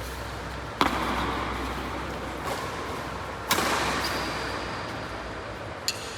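Badminton racket striking a shuttlecock: two sharp hits a little under three seconds apart, each with a short ringing tail, and a faint click near the end.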